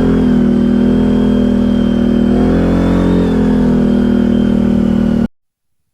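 ATV engine running under steady load at a fairly constant pitch, with slight rises in revs about halfway through; it cuts off suddenly about five seconds in.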